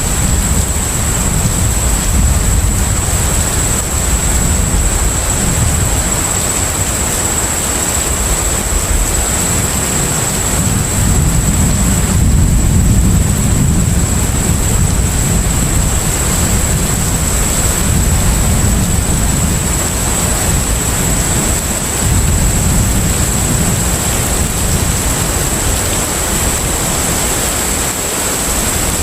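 Steady ship-at-sea ambience: a deep, continuous engine rumble under an even rushing wash of water and wind, with a thin high-pitched whine held steady over it.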